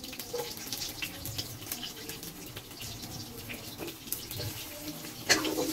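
Garlic and ginger sizzling in hot olive oil in a wok: a steady light crackle of many small pops.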